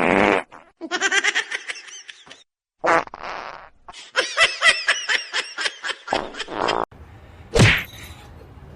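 A person laughing in rapid fits, with short bursts of rough noise at the start and a few seconds in.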